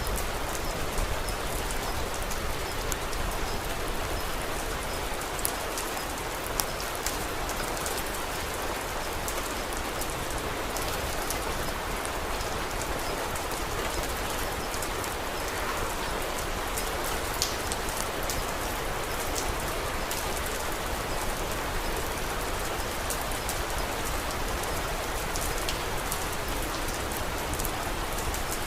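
Steady rain, with scattered small sharp crackles of a wood fire.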